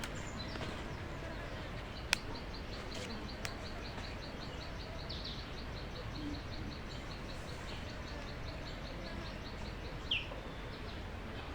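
Countryside ambience with birds calling: a high-pitched note repeated about five times a second for several seconds, and a few short chirps over a steady outdoor background. There is a sharp click about two seconds in.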